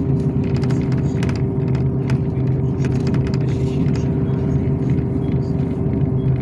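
Yutong ZK6118HGA city bus under way, heard from inside the cabin: a steady engine and drivetrain drone with a constant hum, and light clicks and rattles from the body and fittings.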